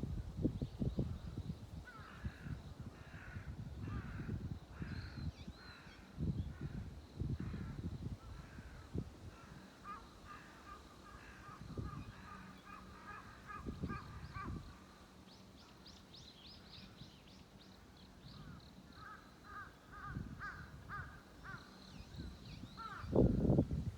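Crows cawing in a long run of repeated calls, about two a second, while smaller birds chirp higher and thinner in the background. Low rumbling bursts come at the start and again near the end.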